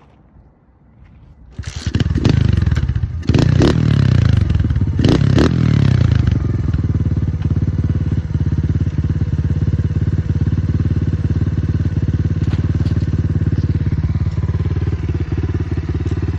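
Apollo RFZ Z20 125cc four-stroke dirt bike engine starting about a second and a half in, revved a few times, then settling into a steady idle.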